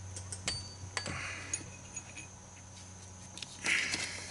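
Light metallic clicks and clinks of socket extensions and a swivel elbow being handled and fitted together, with a short rustle about three and a half seconds in.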